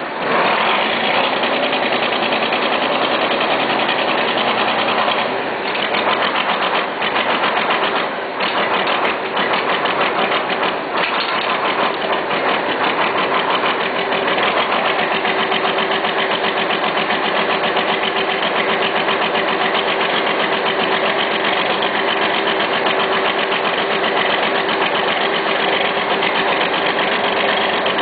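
John Deere 4320's six-cylinder diesel running cold just after a cold start, with a fast, even diesel clatter.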